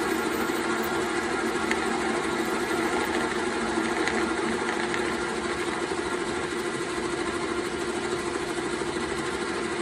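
Metal lathe running steadily under power feed while a parting tool cuts off an aluminium workpiece: a constant hum with a fixed low tone.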